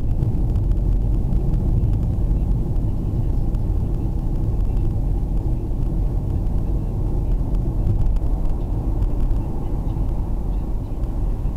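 Steady low rumble of a car's engine and road noise, heard from inside the cabin through a dashcam's microphone.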